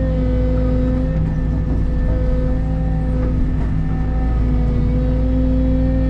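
Caterpillar excavator's diesel engine running steadily at working speed, a constant droning hum whose pitch wavers slightly as the hydraulics take load.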